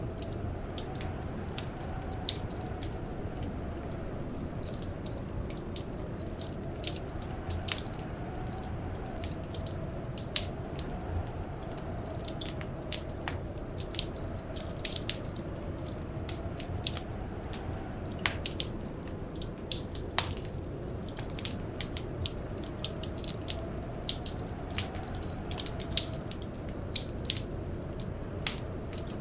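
Wood fire crackling, with frequent irregular sharp pops over a steady low rumble. Under it, a soft wind howl slowly rises and falls in pitch.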